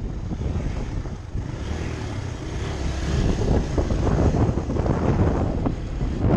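Dirt bike engine running while riding.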